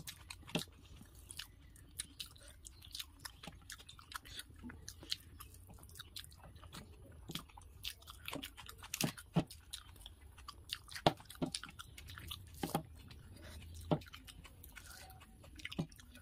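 Close-up chewing and wet mouth smacks of a person eating rice and fried katla fish by hand: irregular sharp clicks and smacks, a few louder ones past the middle.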